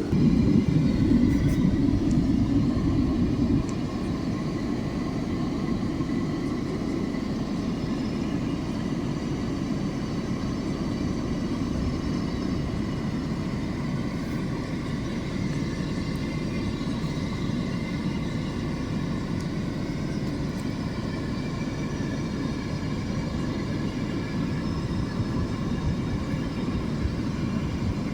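Steady low rumble of an idling vehicle engine, louder for the first three or four seconds and then even.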